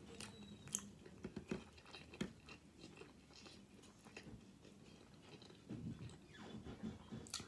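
Faint close-up chewing of a soft burrito, with scattered small mouth clicks and smacks, busiest near the end.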